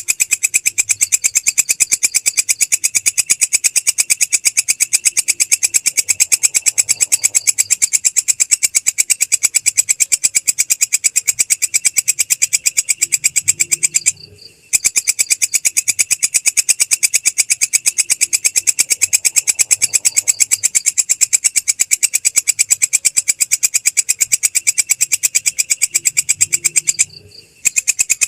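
Belalang krek insect stridulating: a continuous, high-pitched train of rapid, evenly spaced chirps, dropping out for about half a second twice, where the looped recording starts over.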